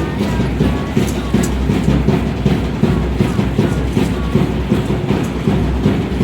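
Aztec dance drumming: a fast, steady, loud beat with rattling clicks over it.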